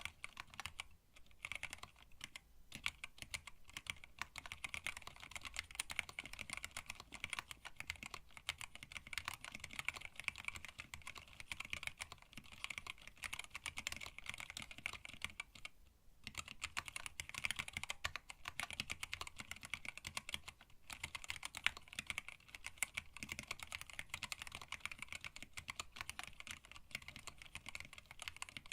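Continuous fast typing on a hand-wired split mechanical keyboard with Tealios linear switches, blank PBT keycaps and a stacked acrylic case, in quick bursts with brief pauses about one, two and a half, and sixteen seconds in.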